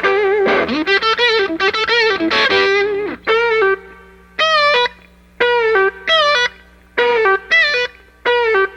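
Electric guitar playing a solo lead line: single sustained notes with wide vibrato and some bends, the first phrase dense, then separate notes and short phrases with brief gaps between them, over a steady amplifier hum.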